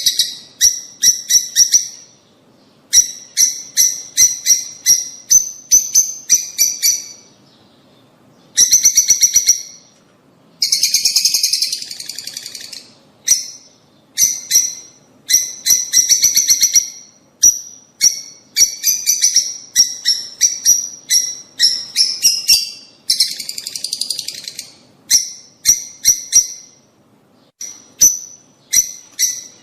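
Lovebirds chattering: rapid runs of high, short chirps in quick bursts, broken by brief pauses of a second or so.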